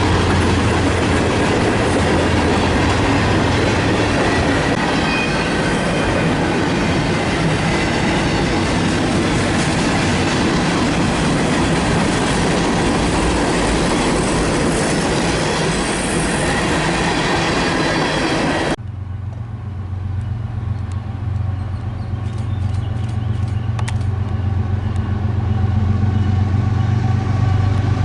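Diesel-hauled train passing close by on the tracks: a loud, steady rush of wheel and rail noise. About two-thirds in, it cuts abruptly to a quieter scene where a diesel locomotive's low engine hum grows louder as the next train approaches.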